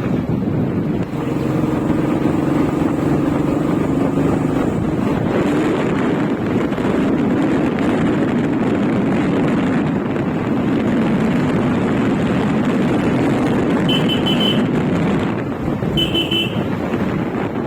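Motorcycle running along the road, with wind rushing over the microphone. A vehicle horn beeps briefly twice near the end.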